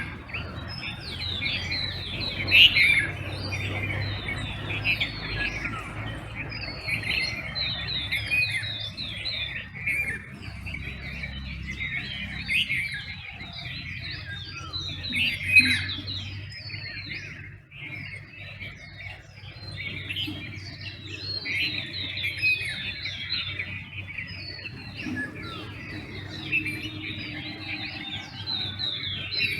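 Dawn chorus of many birds chirping, with short, quick, overlapping calls and slurred notes, a few of them louder than the rest, over a faint steady low hum.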